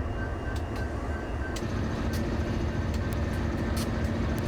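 Track renewal train machinery running with a steady low rumble and scattered sharp metallic clicks and clanks. A rapid, high-pitched beeping sounds for the first second and a half, and the machinery's note shifts at about that point.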